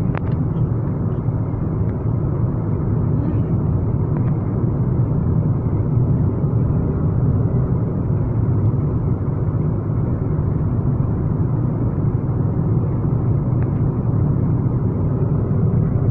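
Steady low rumble of a moving vehicle heard from inside the cabin, holding even without rising or falling.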